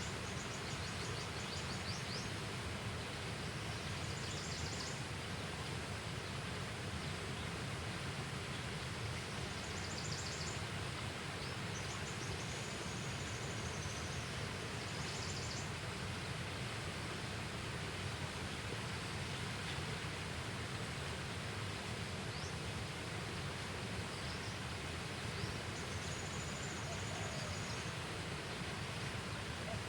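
Steady outdoor ambient noise with short, high-pitched chirps or trills every few seconds.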